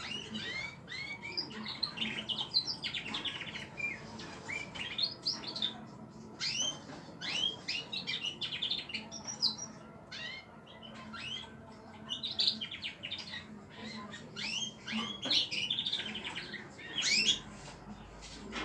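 Small pet cage birds chirping continuously: a rapid run of short, high chirps and quick rising and falling calls.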